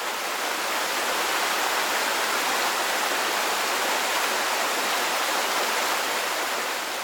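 A steady, even rushing hiss, like running water or white noise, that fades in and out smoothly, with no engine sound in it.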